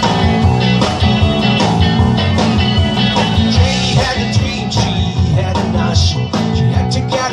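Live rock band playing an instrumental passage: electric guitar, bass guitar and drums with a steady beat.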